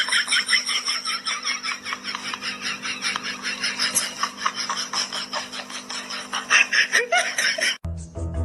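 Rapid, continuous laughter that cuts off abruptly near the end.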